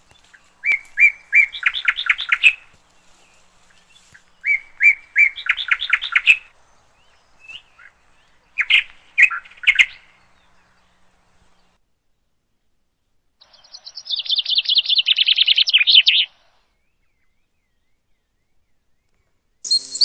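Wild bird calling: twice a few spaced notes that speed up into a rapid chattering series, a shorter burst of notes, then a long fast trill. A brief sharp noise comes at the very end.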